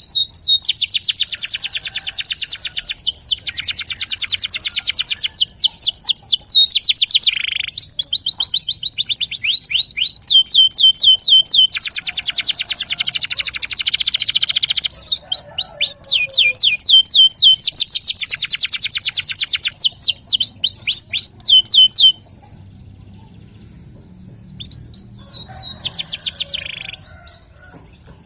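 A canary singing long, fast rolling trills of rapidly repeated sweeping notes, with short breaks between phrases. About three quarters of the way in the song stops; near the end come only a couple of brief phrases over a faint steady high tone.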